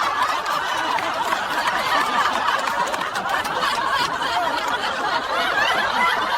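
A crowd laughing and chuckling, many voices at once, steady throughout.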